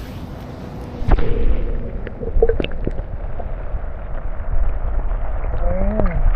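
Wind gusting against the microphone: a low, rough rumble with irregular pops that comes in strongly about a second in and keeps on.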